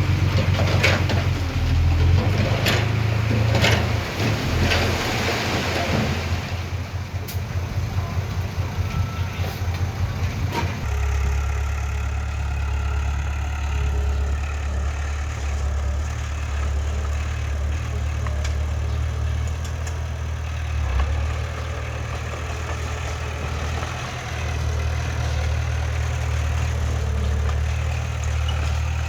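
Heavy diesel earthmoving machinery running. For the first ten seconds or so there is a noisy rumble with clanks and a pulsing engine beat, and about eleven seconds in it settles to a steady low drone.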